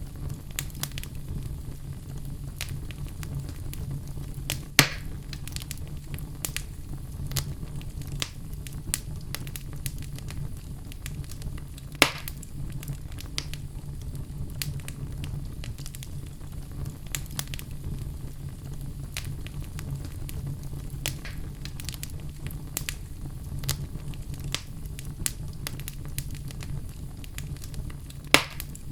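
Fire crackling in a fireplace: a steady stream of small snaps and ticks over a low, even rumble. Three much louder pops stand out, about 5 seconds in, about 12 seconds in, and near the end.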